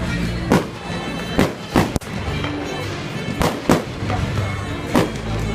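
Fireworks shells bursting: about seven sharp bangs at uneven intervals, one every half second to second and a half, over steady background music.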